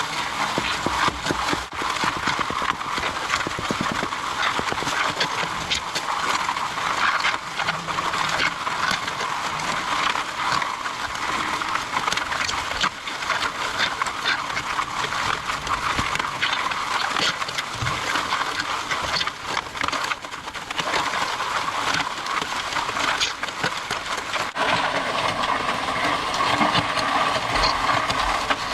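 MudMixer portable concrete mixer running steadily as it churns and pumps concrete, with a dense clatter of gravel.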